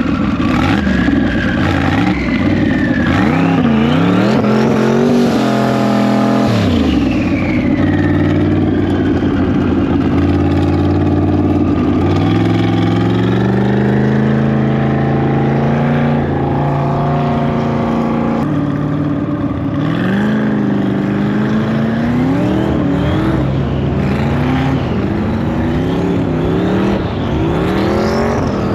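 LS V8-swapped BMW E36 engine revving up and down over and over, its pitch rising and falling with bursts of throttle, with a steadier held stretch in the middle.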